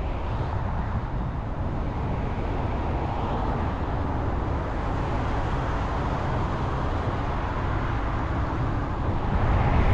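Steady road and engine noise of a vehicle driving, heard from on board, growing a little louder near the end.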